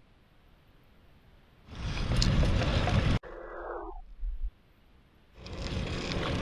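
Rushing wind noise from riding a bike, in two stretches broken by sudden cuts to silence.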